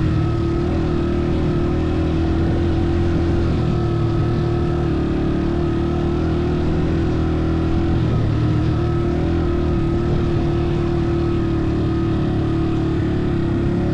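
A motor vehicle's engine running at a steady speed, its note holding level throughout.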